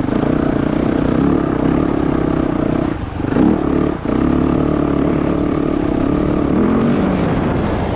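Yamaha YZ450F dirt bike's four-stroke single-cylinder engine running hard under throttle. The revs drop and come back up about three seconds in, and sag again briefly around seven seconds.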